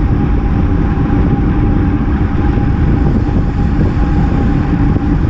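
Wind rushing over a bike-mounted action camera's microphone at riding speed, a loud, steady low rumble with a constant hum running through it.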